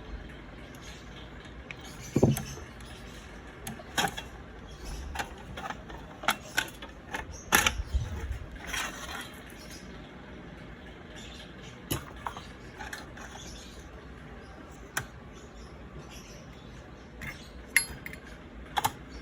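Scattered sharp clicks and knocks of small metal parts and tools being handled, over a steady low hum.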